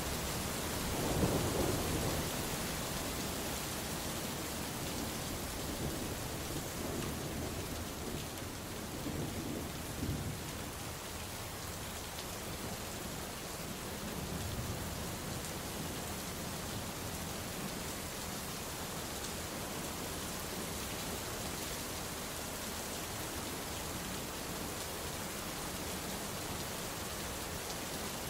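Steady heavy rain falling, with rolls of thunder: a louder low rumble about a second in, then fainter rumbles about a third of the way through.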